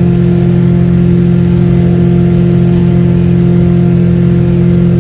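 Fiat Premio's turbocharged 1.5 engine droning steadily at constant revs while cruising, heard from inside the cabin.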